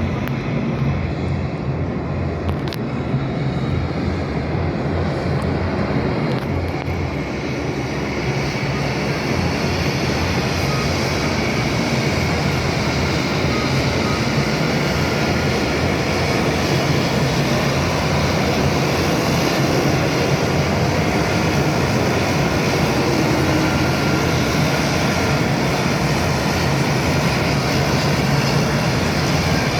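Airplane engine noise: a steady, loud rumble and hiss that grows brighter and slightly louder after about eight seconds.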